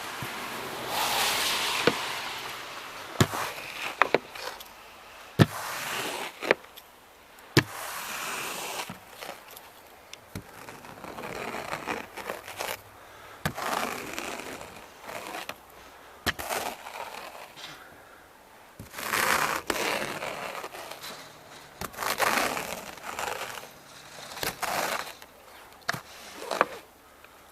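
Light powder snow being brushed and scraped off a car: irregular swishing and crunching strokes, with sharp knocks every few seconds.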